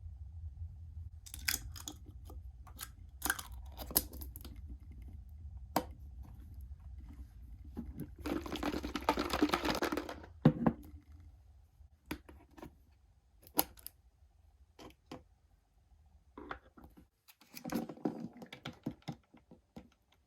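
Hands unboxing toy cars: scattered clicks and taps from plastic packaging and small cars being handled, with a longer stretch of rustling about eight seconds in and another shorter one near the end.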